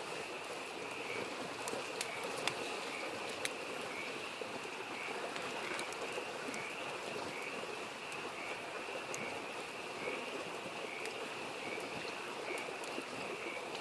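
Steady babble of a mountain stream, with frogs calling in a regular repeating rhythm and the occasional sharp crackle and pop of a wood campfire.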